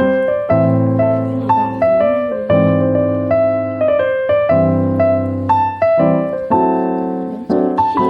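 Piano music: a slow, gentle run of single notes and chords, each struck and fading.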